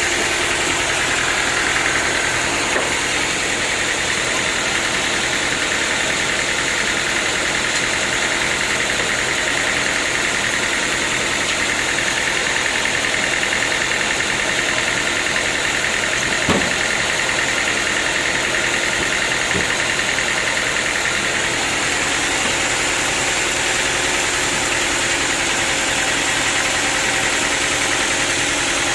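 Sawmill machinery running steadily, a constant loud mechanical drone with a hiss reaching high up, and a single sharp knock about sixteen seconds in.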